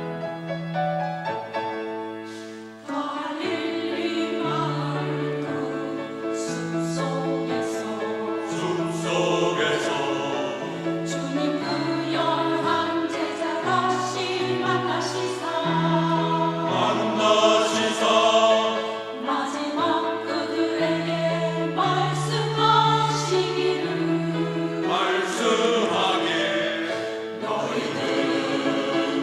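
Church choir singing a sacred anthem in Korean with piano accompaniment. The piano introduction gives way to the full choir about three seconds in.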